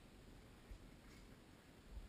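Near silence: faint low background rumble with a couple of soft low thumps.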